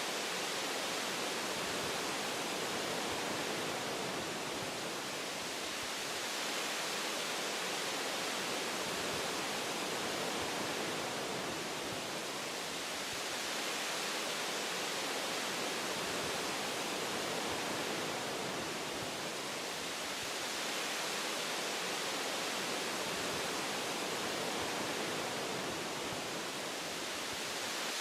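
Wind rushing through forest tree branches, a steady hiss of leaves and boughs that swells and eases gently every few seconds.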